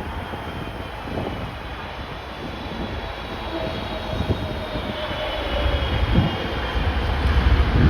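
Jet engines of an arriving airliner whining, the tone drifting slowly lower as it passes, over gusty wind buffeting the microphone that grows stronger near the end.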